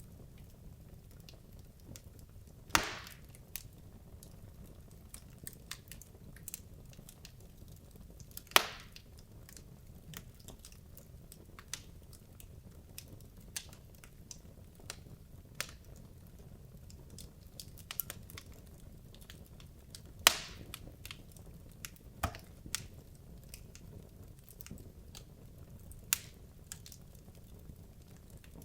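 Wood logs burning in a fireplace: irregular crackling with sharp pops, a few of them louder, over a low steady rumble of the flames.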